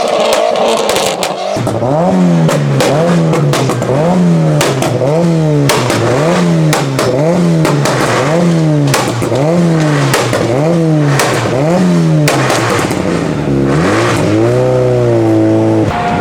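Car engine revved over and over in quick blips, about a dozen in a steady rhythm, with exhaust crackles and pops. Near the end comes one longer rev that rises and holds.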